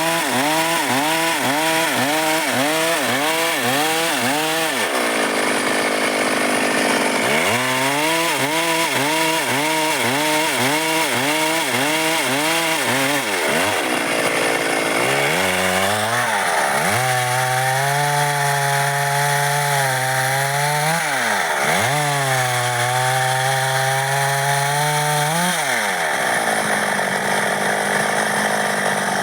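Stihl MS 382 two-stroke chainsaw cutting dry wood under load. Its engine note wavers up and down about twice a second as the saw works through the cut. Several times the pitch drops away between cuts before the saw is back in the wood.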